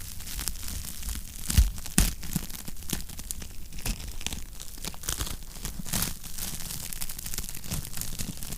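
Wood fire crackling in a fireplace: a dense run of small snaps and pops, with two louder pops about one and a half and two seconds in.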